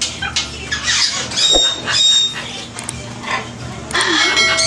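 Parrots squawking and whistling: a string of short, shrill calls, several with high steady whistled notes.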